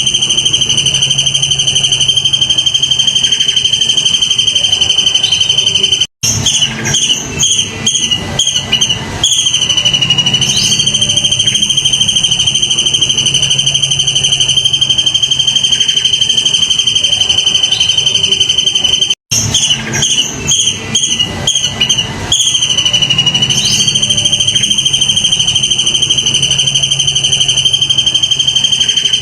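A loud, continuous shrill insect trill on one steady high pitch. It breaks off twice for a moment, about 13 seconds apart, and each time a few seconds of stuttering, rapid chirps follow before the steady trill resumes, as a looped recording would.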